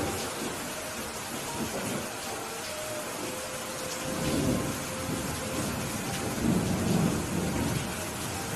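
Steady rain falling, with low rolls of thunder that swell about four seconds in and again a couple of seconds later.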